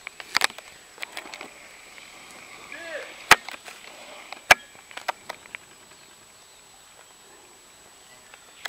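Scattered single shots from airsoft guns: sharp snaps at uneven intervals, the two loudest about three and four and a half seconds in, with a few fainter ones around them.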